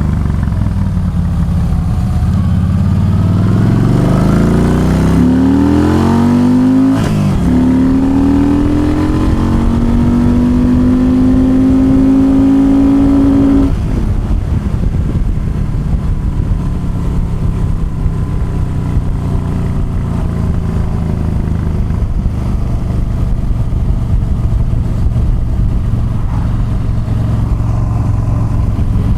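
Yamaha V-Star 1300 V-twin motorcycle engine accelerating: the revs climb for a few seconds, break at a gear change about seven seconds in, climb again, then drop suddenly as the throttle closes about fourteen seconds in, after which the engine runs steadily at lower revs.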